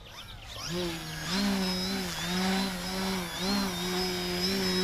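Small electric RC aerobatic plane's brushless motor and propeller throttling up into a steady buzzing whine. Its pitch dips and rises again several times as the throttle is worked.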